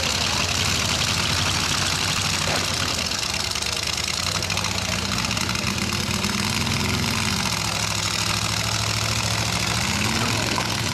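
Demolition-derby pickup truck engines running steadily, with one revving up and back down about six to eight seconds in.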